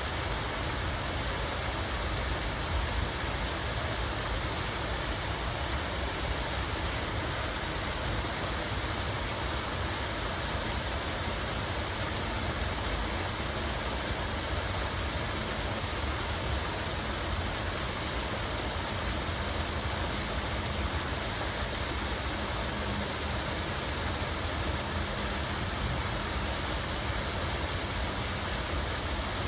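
Running water flowing steadily, an even continuous hiss that does not change.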